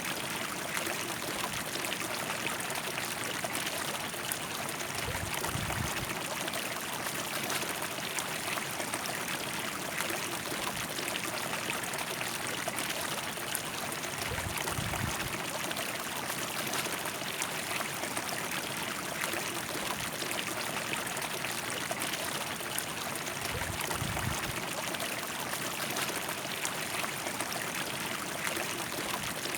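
River water flowing in a steady, even rush. A brief low rumble comes three times, about 5, 14 and 24 seconds in.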